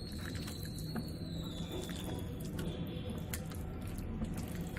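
Chicken pieces being mixed by hand in a bowl of thick curd-and-spice marinade: faint wet squishing with scattered small clicks, over a steady low hum.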